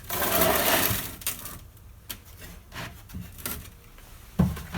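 Handling noises as a baking pan is fitted under a flat glass grinder: a scraping rub lasting about a second, then scattered light clicks and taps, and a heavier knock near the end.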